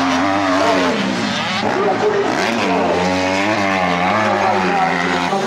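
Motocross bike engines at high revs, the pitch rising and falling continuously as the throttle is opened and closed.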